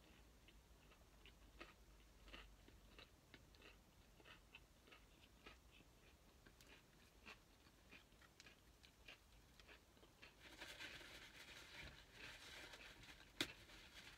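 Faint close chewing of a burger, with small mouth clicks. About ten seconds in, a louder rustling and handling noise starts, with a sharp click near the end.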